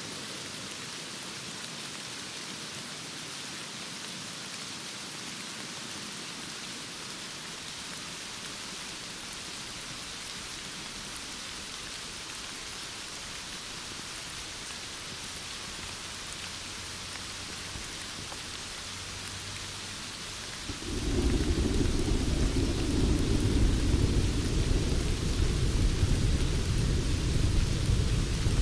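Steady heavy rain. About twenty seconds in, a loud low thunder rumble breaks in and keeps rolling under the rain.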